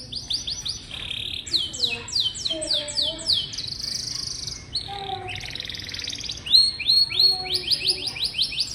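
Domestic canary singing: quick runs of the same falling note repeated many times a second, changing from one run to the next, with two buzzy rolls in the middle.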